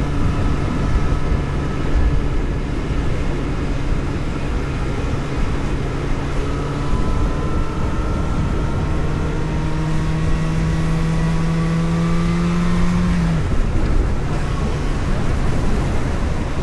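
Engine of the vehicle being driven, running under road and wind noise. From about eight seconds in its note climbs slowly as it accelerates, then drops suddenly about thirteen seconds in.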